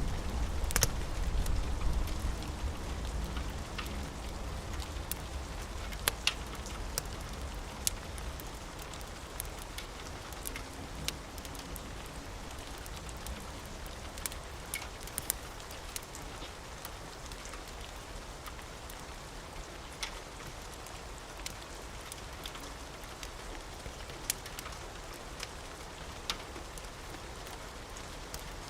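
Steady rain with scattered sharp pops and crackles. A low thunder rumble fades out over the first few seconds.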